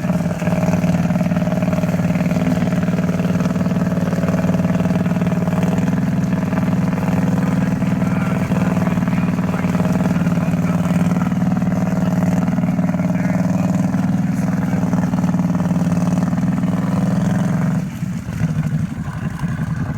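A vehicle engine running steadily at high revs, then easing off and turning rougher about two seconds before the end.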